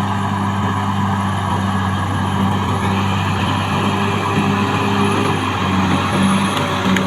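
Caterpillar D6R XL bulldozer's diesel engine running steadily at working speed.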